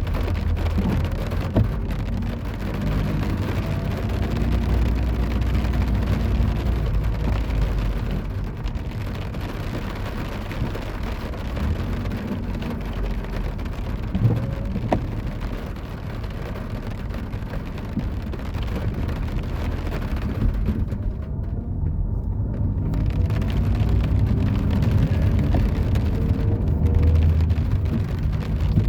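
City road traffic in the rain: car engines running and passing with a steady low rumble, with rain falling.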